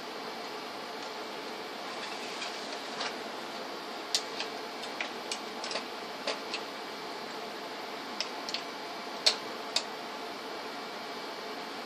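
Light, irregular clicks and taps, as of small tools or parts being handled, over a steady fan-like hum.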